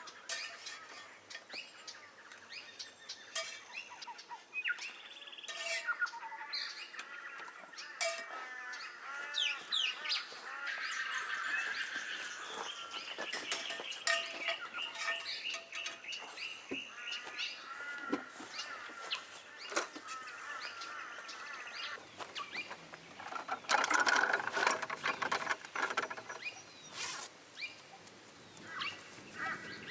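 Wild birds calling and chattering, many overlapping chirps and warbling calls, with a louder burst of calling a little after three-quarters of the way through.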